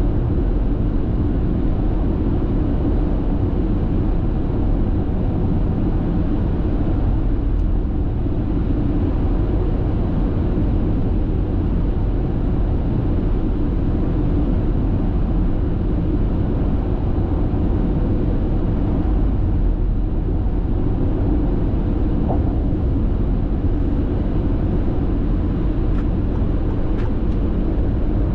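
Steady road and tyre noise of a car cruising at constant speed on an expressway, heard from inside the cabin as a deep, even rumble.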